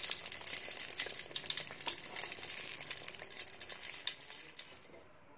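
Eggplant slices sizzling and crackling as they fry in hot oil in a wok, with small pops in the hiss. The sizzle fades away over the last second or so.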